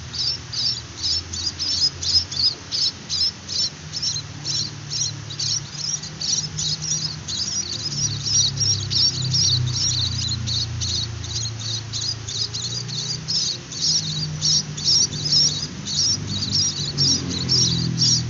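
Munia (emprit) chicks giving thin, high begging calls in a rapid even series, about three or four a second, over a low steady hum.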